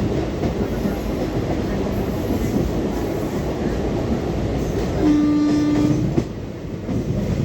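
Purushottam Express passenger train running at speed, a steady rumble of wheels on the track. A train horn sounds once, a steady note lasting about a second, about five seconds in, followed by a short click.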